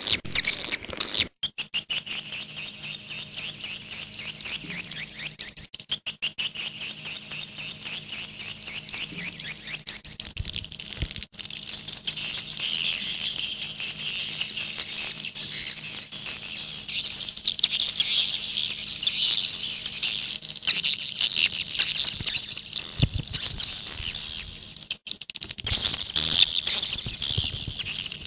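Swiftlets twittering in a dense, continuous stream of high chirps with a rapid pulsing rhythm, broken briefly about 25 seconds in.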